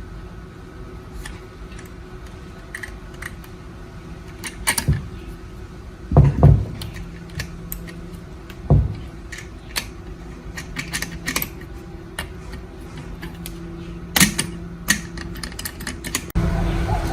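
Small metal parts and tools clicking and clinking in irregular sharp taps, with a couple of heavier thuds about six and nine seconds in, over a faint steady hum.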